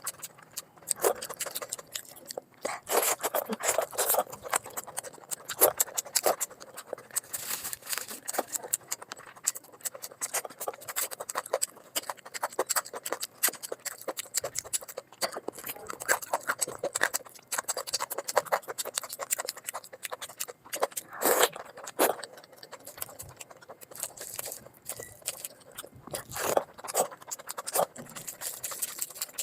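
Close-miked mukbang eating sounds: chewing and biting into curry and rice, a dense run of irregular wet clicks and scraping noises.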